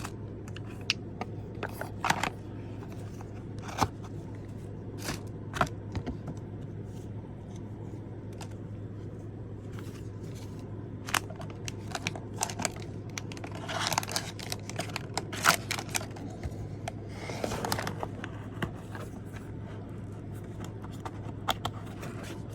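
Packaging and small items handled on a table: scattered light clicks, taps and rustles, busiest in the middle and second half, over a steady low hum.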